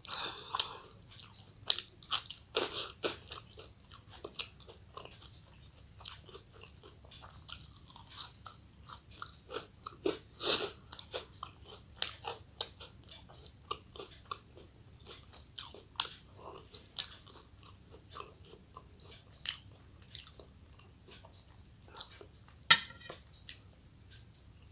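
A person eating, chewing with irregular short wet smacks and clicks of the lips and mouth. One louder smack comes near the end.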